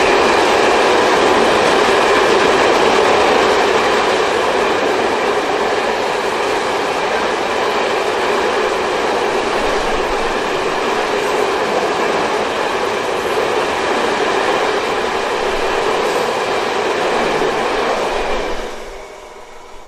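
A train hauled by a Siemens Vectron electric locomotive running along the track, a steady rail rumble with some clickety-clack of wheels over rail joints. The sound fades away shortly before the end.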